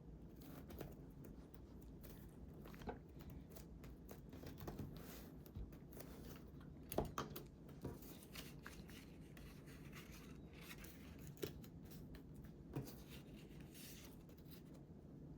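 Quiet paper crafting: paper rustling and being cut with scissors, with scattered small clicks and taps, the sharpest about seven seconds in.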